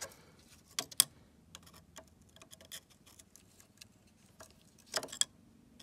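Screwdriver working the bolts of a Voskhod 3M motorcycle's exhaust baffles loose: scattered light clicks and ticks, with two sharper clicks about a second in and a few more near the end.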